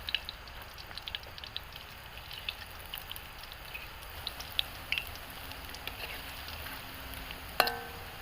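Tempeh frying in hot oil, with sparse light crackling and spitting. A single sharp metal clink with a short ring comes near the end, a utensil striking the pan.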